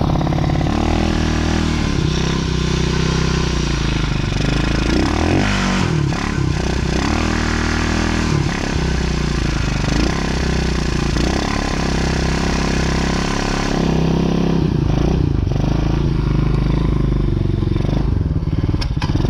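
DB14 youth dirt bike engine running with the choke just turned off, revving up and down repeatedly; it is not yet warmed up.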